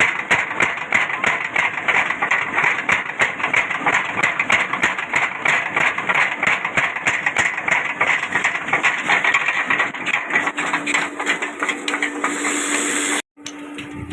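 Continuous rapid, irregular rattling and grinding noise, typical of a workshop machine at work, cutting off abruptly near the end, with a steady low hum underneath during the last few seconds.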